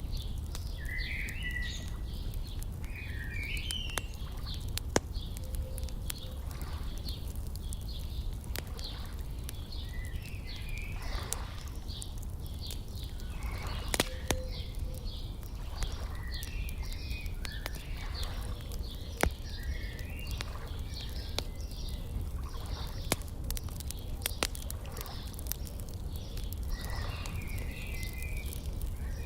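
Wood fire crackling with scattered sharp pops, mixed with birds singing short phrases every few seconds over a steady low rumble.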